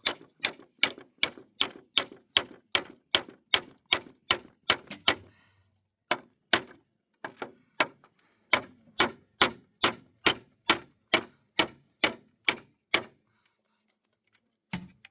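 A hammer striking wood in a quick, steady rhythm of about two blows a second. The blows break off briefly about five seconds in, resume, and stop about two seconds before the end, with one last blow just before the end.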